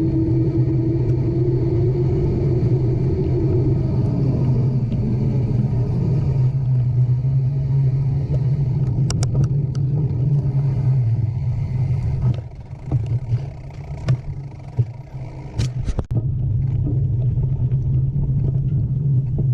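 Steady low rumble of a moving vehicle, with a constant drone and a pitch that rises and falls slightly in the first few seconds. About two-thirds of the way in it drops away for a few seconds, with a few sharp clicks, then comes back.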